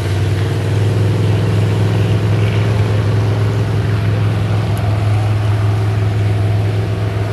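An engine running steadily at an unchanging speed, with a strong low hum.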